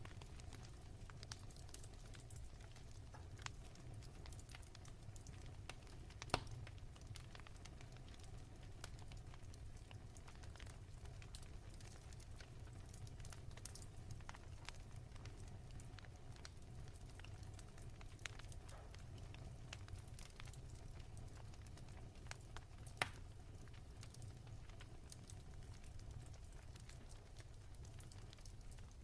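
Wood fire in a fireplace crackling softly: a low steady rumble with scattered small pops, two of them sharper, one about six seconds in and one a little over twenty seconds in.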